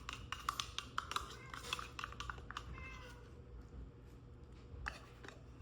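A house cat meowing around the middle, amid light clicks and taps.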